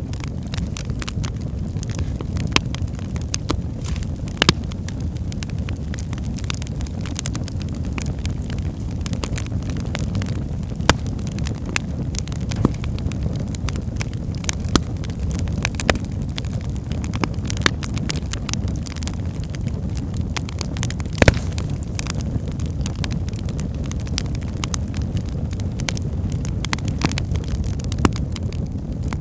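Wood fire burning in a fireplace: a steady low rumble of flame with frequent irregular crackles and pops from the burning logs, a few of them sharper and louder.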